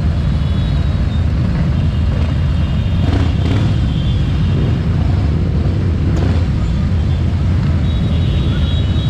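Harley-Davidson motorcycle engine running steadily, a continuous low-pitched engine sound with no pauses.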